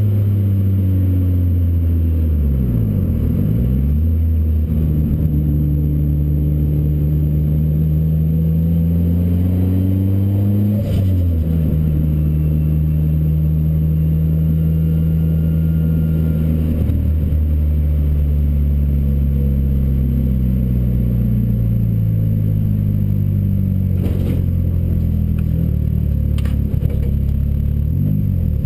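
In-car sound of a Ford Racing Puma's modified Focus RS engine under way on track, its note rising and falling with the throttle and gear changes, with sharp breaks in pitch about three, eleven, seventeen and twenty-eight seconds in.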